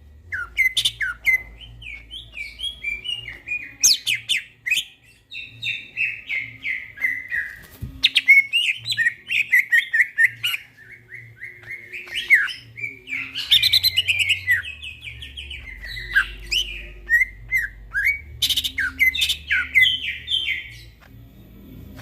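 A cucak ijo (green leafbird) singing a long, fast, varied song of chattering chirps and sharp whistled strokes, with only brief pauses, in the lively ngentrok style.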